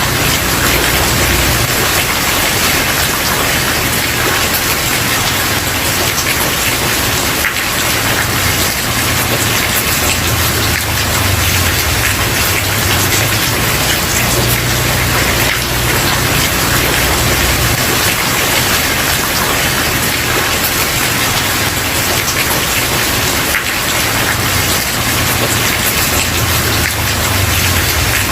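Steady heavy rain falling on a wooden porch, a dense even hiss of drops with a low rumble that comes and goes underneath.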